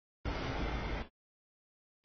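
Freight train cars of a CSX autorack train rolling past a grade crossing: a steady noisy rumble of wheels on rail. The audio comes in for about a second, drops out to dead silence, and cuts back in near the end.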